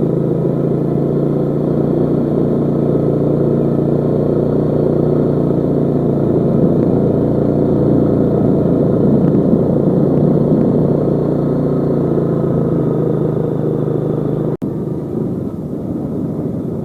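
Yamaha Jupiter Z motorcycle's engine running steadily under way, with a brief cut near the end after which it is a little quieter.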